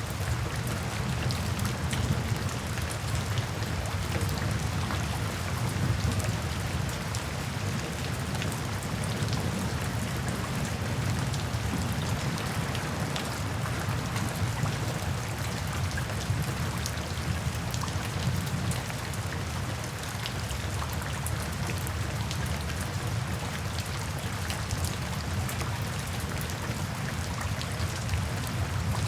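Steady rain falling, with many individual drops ticking sharply on a hard surface over a deep, even rush.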